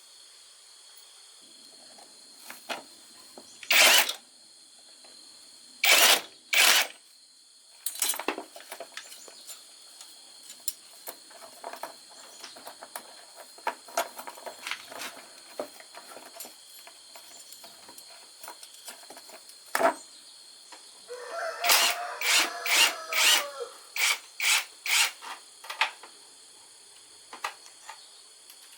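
Hand tools clanking and scraping on metal motorcycle parts: a few sharp knocks, then a quick run of about eight ringing metal strikes near the end. Crickets chirr steadily throughout.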